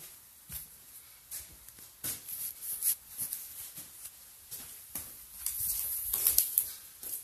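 Scattered scrapes, rustles and light knocks as pieces of cut, rotten wood subflooring are lifted up and handled, with a longer stretch of scraping about five to six and a half seconds in.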